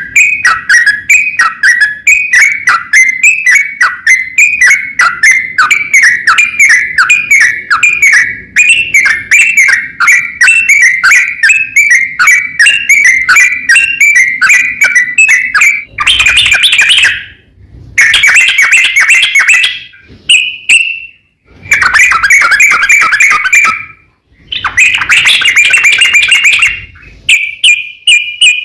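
Yellow-vented bulbul (trucukan) singing: a fast run of loud, bubbly chirping notes, several a second. About halfway through it breaks into separate bursts of dense chatter with short pauses between them. Near the end it holds a steadier trilled note.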